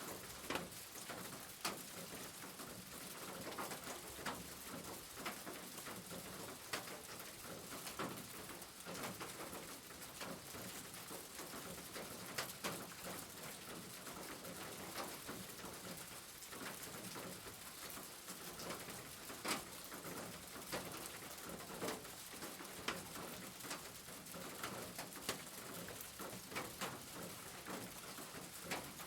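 Rain falling on a roof: a steady hiss of rain with irregular louder drips and drop impacts scattered through it.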